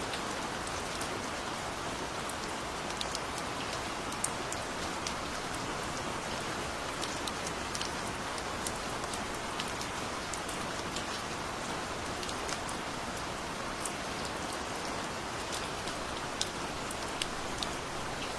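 Steady gentle rain: an even hiss of rain falling, with scattered sharper ticks of single drops striking close by.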